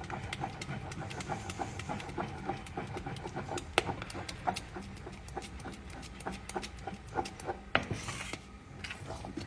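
Custard being stirred in a saucepan on the stove to thicken it, the utensil scraping along the bottom and sides of the pan with irregular small clicks against the metal.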